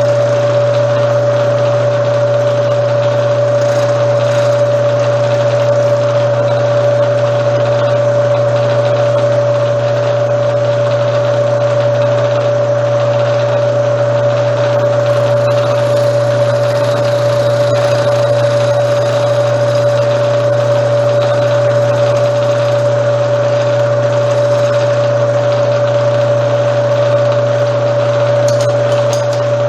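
Milling machine running steadily, cutting a relief into a brake caliper mount, with a constant mid-pitched whine over a low hum.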